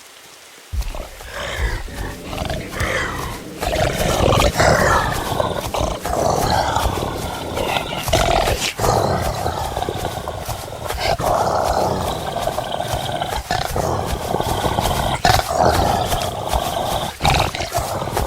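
Loud animal calls, with pitched cries that bend up and down and sharp knocks every few seconds.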